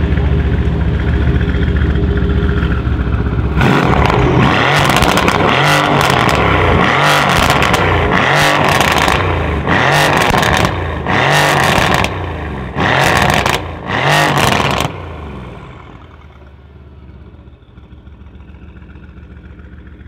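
Mercedes-AMG C63 estate's twin-turbo V8 running steadily, then revved hard from about four seconds in, in a string of rev bursts with short gaps between them. About fifteen seconds in it drops back to a much quieter idle.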